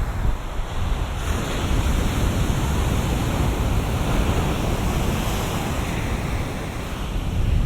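Ocean waves breaking and washing ashore, the rush building about a second in and easing slightly near the end, with wind rumbling on the microphone.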